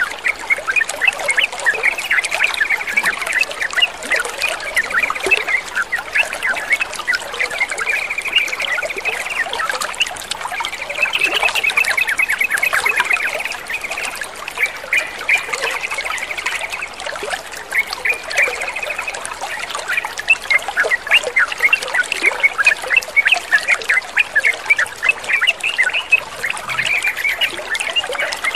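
Trickling water under nonstop chatter of yellow-vented bulbuls (trucukan): dense, overlapping quick chirps and short trills.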